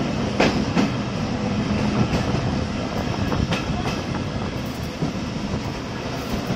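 A train running on the rails with a steady low rumble, its wheels clacking sharply over rail joints at uneven intervals.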